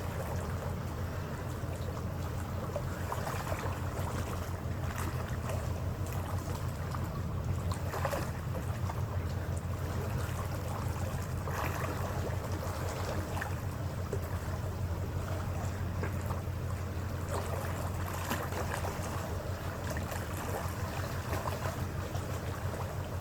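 Passenger ferry's engines running with a steady low drone, mixed with wind and the wash of water.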